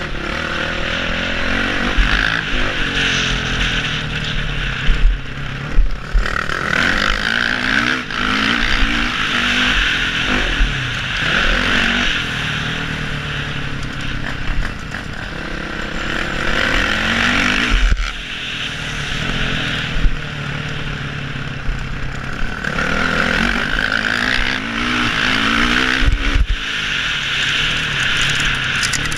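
Four-stroke motocross bike engine revving up and dropping back again and again as the rider works through the gears, heard from a helmet camera with a steady rush of wind noise. A few sharp knocks stand out.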